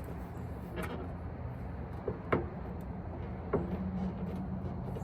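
A few short clicks and knocks of a pickup's plastic tail light assembly being wiggled and pried out of its ball-socket clips, over a steady low hum.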